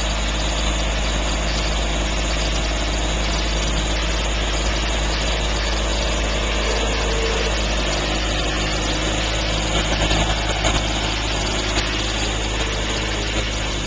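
Small tractor's engine running steadily at idle, a constant low drone with no change in speed.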